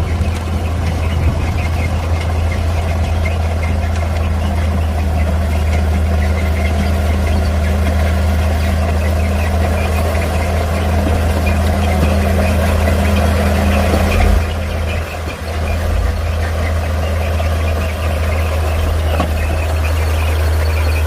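Heavy diesel engine of an earthmoving machine running steadily with a deep, constant hum, briefly dipping in loudness about fifteen seconds in.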